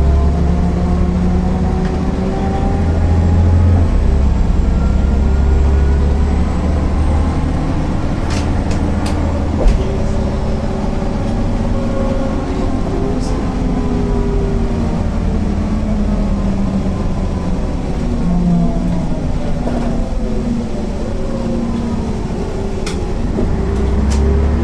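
MAN NL 262 city bus diesel engine under way, its note rising and falling several times as the bus accelerates and its ZF 5 HP 600 automatic gearbox shifts. There are a few light rattles and one short knock about ten seconds in.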